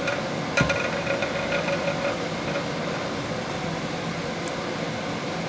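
Steady room hum from an air conditioner, with one light click about half a second in.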